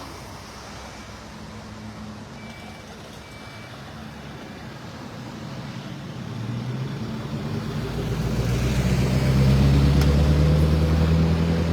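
A truck engine runs, swelling in loudness over the second half and holding near its loudest. Two short faint beeps come about two and three seconds in.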